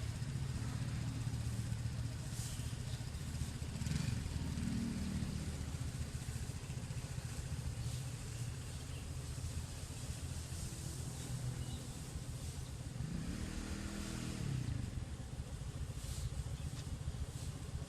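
A small engine, like a motorcycle's, running steadily, its pitch rising and falling twice: briefly about four seconds in, and more strongly around thirteen to fifteen seconds in.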